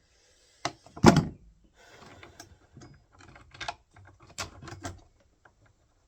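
Chainsaw side cover being worked loose and lifted off by hand after its two bolts are out: a sharp knock about a second in, then a run of small clicks and scraping as the parts are handled.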